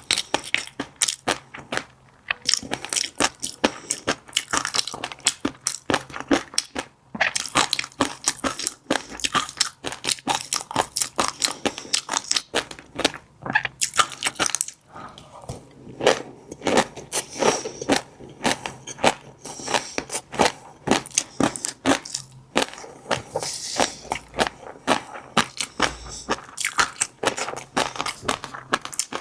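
Close-miked chewing of fish roe: a dense run of small pops and clicks as the eggs burst between the teeth, with a few short pauses.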